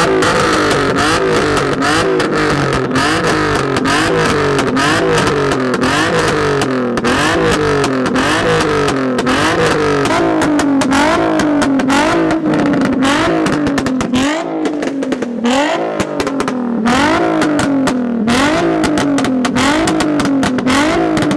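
A car engine is revved hard, over and over, through a loud aftermarket exhaust. The pitch climbs and drops about once a second, with sharp crackles and pops from the exhaust.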